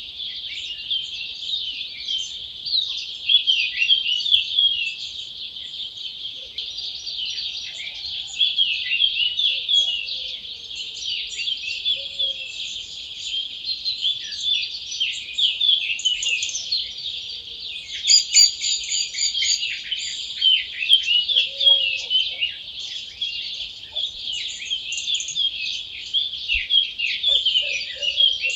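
Dawn chorus: many wild birds singing at once in a dense, unbroken mass of high chirps and trills, with a few faint lower notes now and then.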